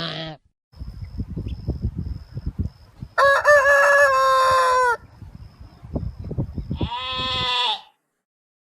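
A rooster crowing once, a single call of about two seconds, over low rumbling noise. A shorter call follows near the end.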